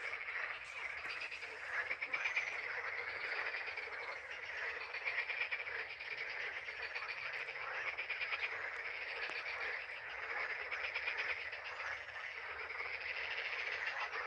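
Dense chorus of many frogs calling at once, their overlapping calls merging into a steady, rapid rattle.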